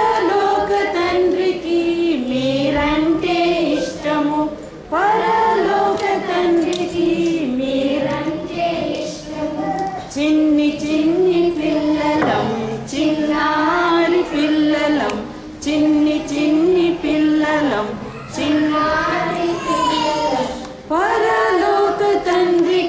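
A group of children singing a song together, with sustained sung phrases.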